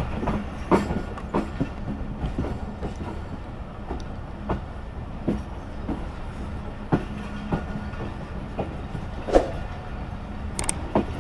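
Passenger train running on the track: a steady low rumble with irregular clacks and knocks from the wheels over the rails.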